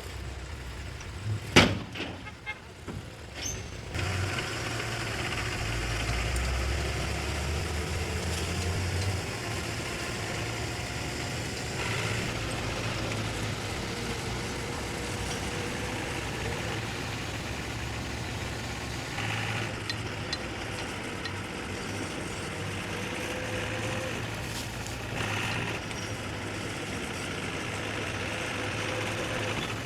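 Diesel engine of heavy earth-moving machinery running, with a single sharp bang about a second and a half in. The engine then grows louder and deeper for several seconds before settling to a steady drone.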